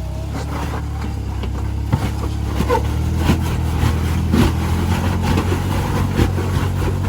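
Jeep engine running steadily under load as it crawls up a rock ledge on a tight winch line, with repeated sharp knocks and clatters over it.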